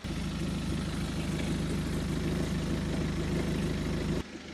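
BMW 520d's four-cylinder diesel engine idling steadily, kept running for the automatic gearbox fluid level check. The sound drops away abruptly about four seconds in.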